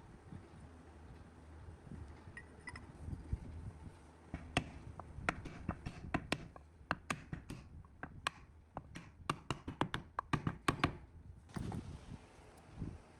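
A run of sharp, light taps and clicks, irregular and several a second, starting about four seconds in and stopping abruptly near the end, over a low steady rumble.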